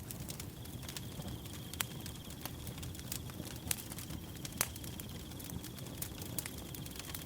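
Wood fire burning with a low rumble and irregular sharp crackles and pops. From about half a second in, a cricket trills steadily at a high pitch.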